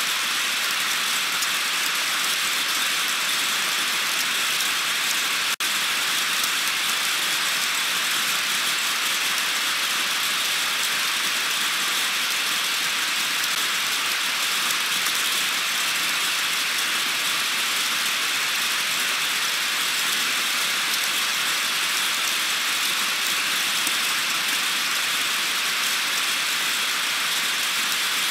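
Heavy rain pouring steadily on the nest camera, an even hiss, with one momentary break about five and a half seconds in.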